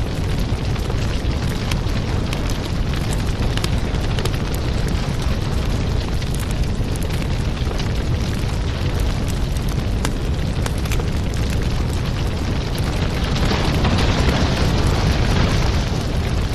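Wood fire in a fireplace crackling and popping over a steady low rumble, with a louder stretch of hiss and crackle near the end.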